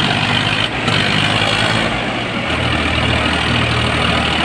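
Diesel tractor engine running steadily, its low note shifting about two and a half seconds in.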